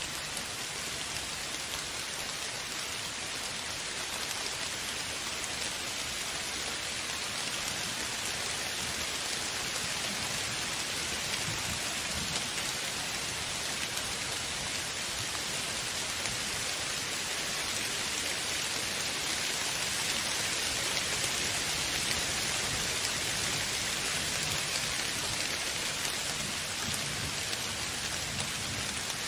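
Steady rain falling, a dense even hiss of drops that swells slightly in the middle, with a faint low rumble underneath at times.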